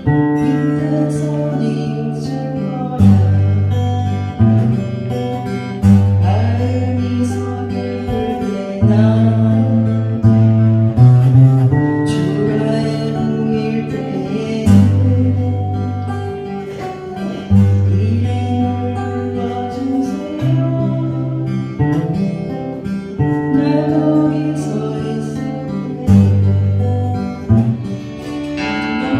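Acoustic guitars strumming chords while people sing along, with a steady bass line underneath.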